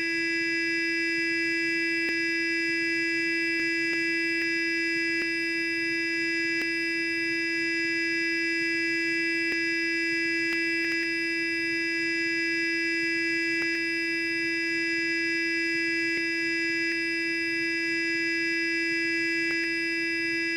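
Sonic electric toothbrush running continuously, a steady, even buzz held at one pitch.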